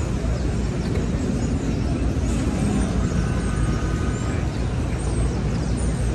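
City street traffic: a steady rumble and hiss of passing vehicles, with a faint high tone for about a second around the middle.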